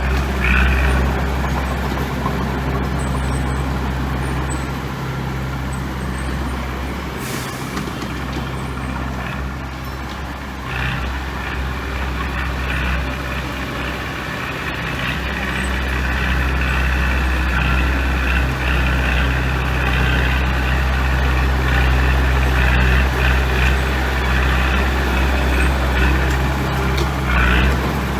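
Heavy diesel construction machinery running steadily with a deep, even engine hum, with a brief hiss about seven seconds in.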